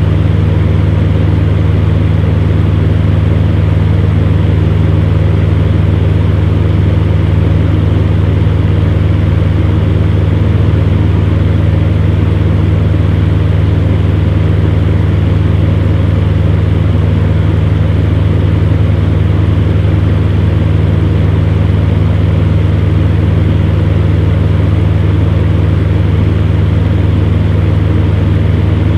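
Electric fan heater running steadily: a constant low motor hum under an even rush of blown air.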